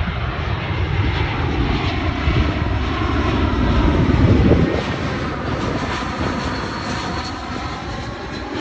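Jet airliner on final approach passing close by, engines running: the rumble swells to its loudest about four seconds in, then the deep part drops away and the pitch sweeps down as it passes and moves off.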